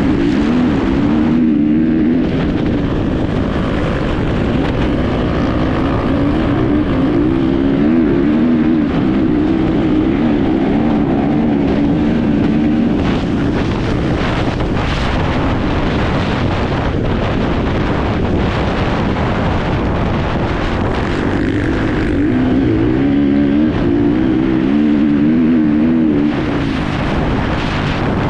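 Enduro motorcycle engine heard on board while riding, its pitch rising and falling as the throttle is worked, over heavy wind and road noise with scattered knocks.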